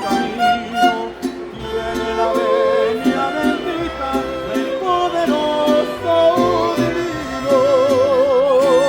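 Mariachi band playing: violins carry the melody with a wide vibrato over strummed guitars and low bass notes, with long held violin notes near the end.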